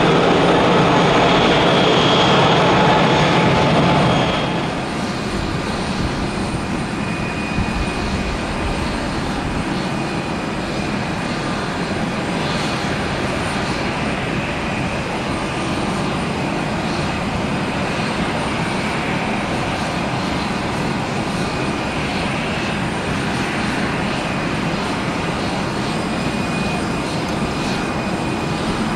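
Twin turbofan engines (GE CF34-8E) of an Embraer 175 running at takeoff power, a steady jet noise heard from the ground. The sound is louder for the first four seconds, then drops and holds steady.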